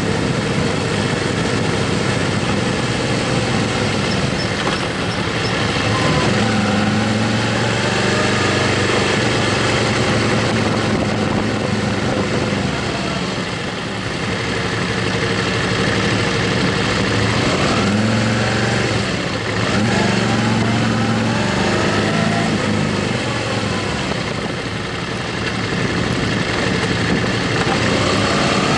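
Motorcycle engine running while the bike is ridden, its pitch stepping up and down a few times with the throttle, over a steady rush of wind noise.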